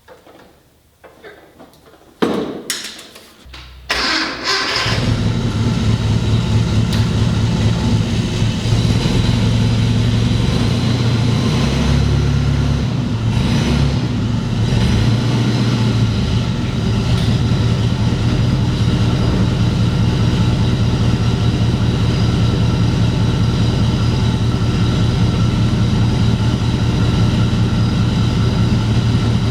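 A couple of knocks, then a forklift engine starts about four seconds in and runs steadily at idle, its note changing briefly about halfway through.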